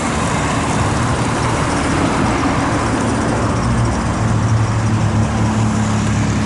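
Truck engine and road noise heard from inside the cab, a steady low drone whose engine hum grows a little stronger about five seconds in.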